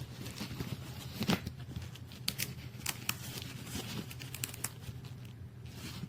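Scattered rustling, crinkling and light clicks of something being handled, the sharpest about a second in and several more in the middle, over a steady low hum.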